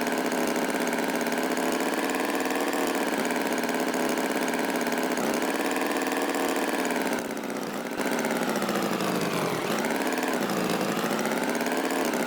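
Tractor engine running steadily, with a brief quieter dip a little past halfway and its pitch dropping and rising twice near the end.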